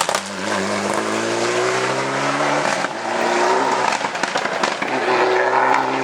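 Rally car engine under hard acceleration, its pitch rising, dropping at a gear change about three seconds in and rising again, with a few sharp cracks near the start.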